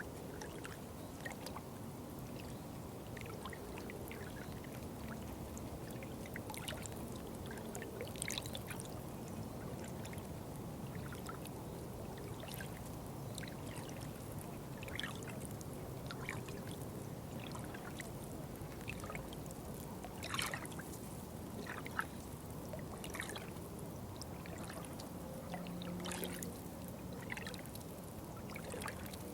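Water flowing and trickling steadily, a low continuous rush with scattered small splashes throughout.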